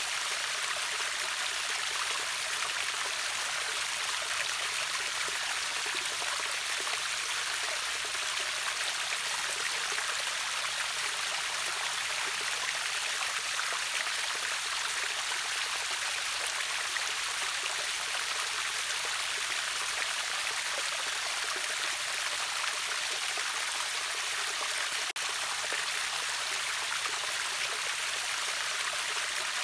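A river pouring over a waterfall: a steady, even rush of flowing water, strongest in the hiss and splash, with one momentary dropout near the end.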